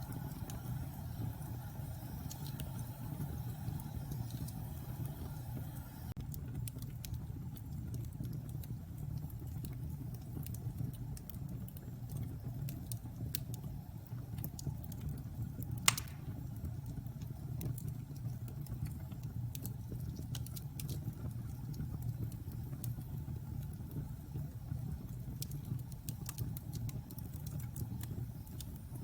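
Wood fire burning in a fireplace: a steady low rumble with scattered crackles, and one sharp, loud pop about halfway through.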